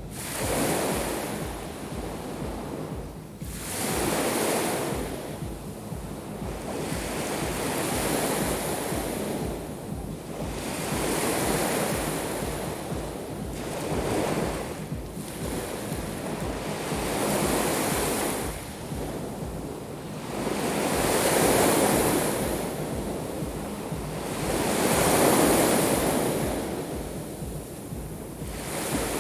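Black Sea waves breaking on the shore, a surge of surf every three to four seconds, with wind rumbling on the microphone.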